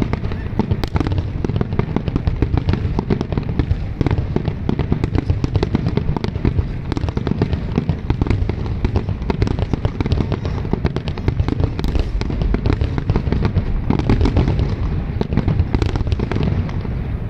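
Aerial fireworks display at full intensity: many shells bursting in rapid, overlapping succession, a continuous barrage of booms and pops with no pause.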